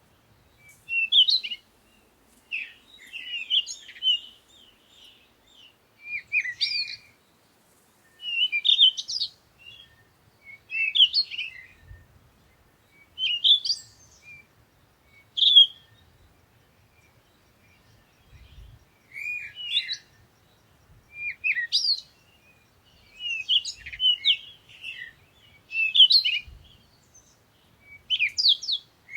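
Songbirds singing in short, repeated phrases of high chirps, about one phrase every one to two seconds, with a short lull about halfway through.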